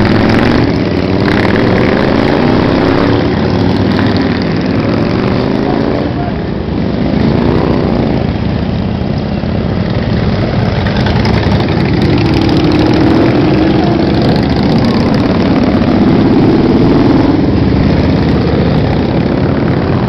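Many motorcycle engines running together as bikes ride past in a steady stream, their engine notes rising and falling and overlapping.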